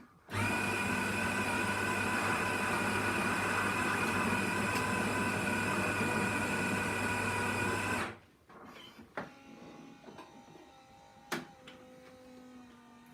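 Miele CM 7300 super-automatic espresso machine running with a steady mechanical hum and buzz for about seven and a half seconds, starting and cutting off abruptly. A sharp click follows a few seconds later.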